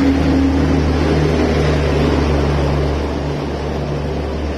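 Electric locomotive passing at speed, a loud steady rumble with a low hum and a few steady tones. About three seconds in, the LHB passenger coaches are rolling by, slightly quieter.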